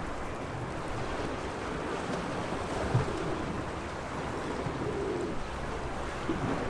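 Small sea waves washing steadily against the shore, with a brief knock about three seconds in.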